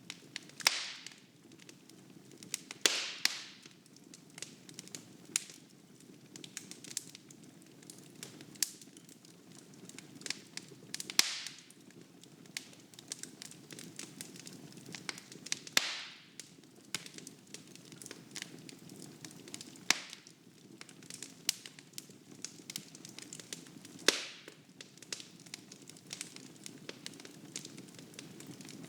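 Wood fire burning in a fireplace, crackling with sharp irregular pops and snaps over a soft steady rush of the flames.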